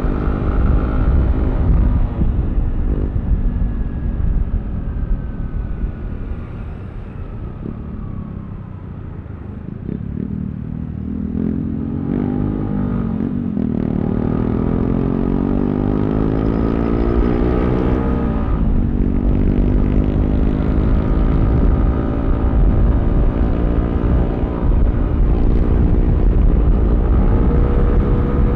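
Yamaha Aerox V3 scooter's 155 cc single-cylinder engine running under way, with wind rumbling on the microphone. Its note drops and eases off, then about ten seconds in it climbs in pitch as the scooter accelerates, before settling into a steady cruise.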